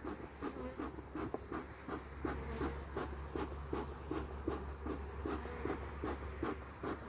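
Honeybees buzzing around an opened hive, with a run of short, evenly spaced scraping strokes, about three a second.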